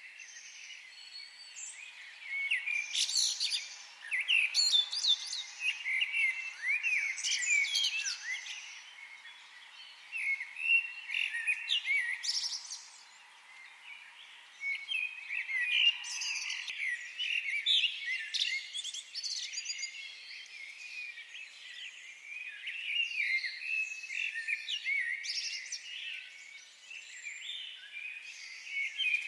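Several songbirds chirping and singing, with quick overlapping calls that come in clusters and brief lulls. A faint steady hiss underneath stops about sixteen seconds in.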